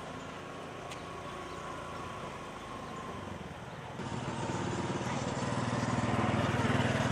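A vehicle engine running, with a low steady hum at first, then a louder rumble that comes in about four seconds in and keeps growing louder, as if the vehicle is drawing nearer.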